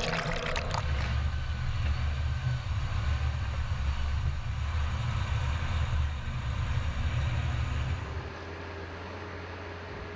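Volvo FMX truck's diesel engine running under load with a heavy low rumble, dropping to a quieter, steadier hum about eight seconds in. A brief crackling burst at the very start.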